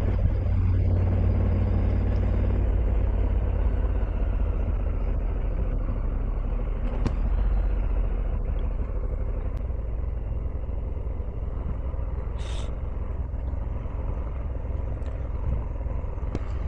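Motorcycle being ridden: steady engine and road rumble, heaviest in the low end, easing slightly over time, with a brief high hiss about twelve seconds in.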